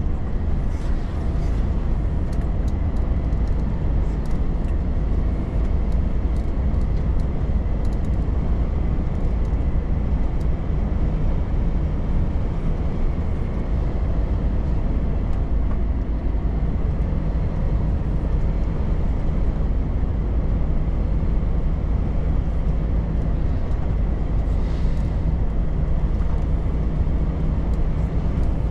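Volvo FH truck driving at a steady speed: a constant low engine and road rumble, with a few faint ticks in the first several seconds.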